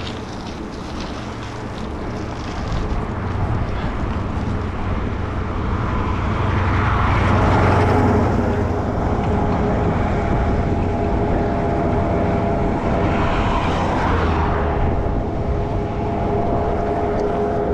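Road traffic noise: vehicles passing over a steady low rumble, the loudest pass about halfway through and another a few seconds before the end.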